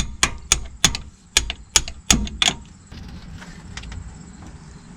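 Hammer striking steel in a quick series of sharp, ringing taps, about four a second, stopping about two and a half seconds in: driving out a stuck differential pin.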